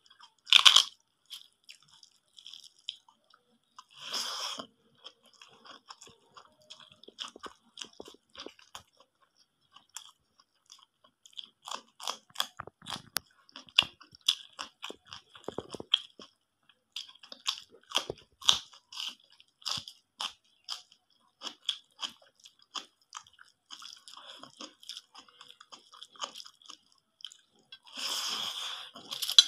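Close-miked chewing and crunching of mouthfuls of rice and egg curry topped with crispy fried bits, a dense run of small wet clicks and crackles. Louder rustling bursts about half a second in, around four seconds in and near the end come from a hand mixing food in the steel plate.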